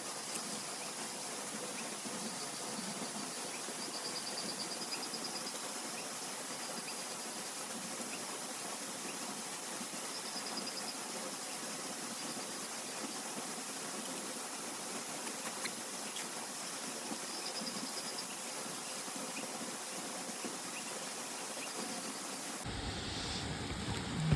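Steady hiss of rain, with insects trilling faintly now and then. Near the end the sound changes abruptly and a low thump is heard.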